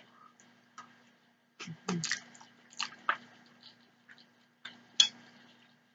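Close-miked wet chewing of spaghetti with cheese: scattered mouth smacks and clicks, the sharpest about five seconds in.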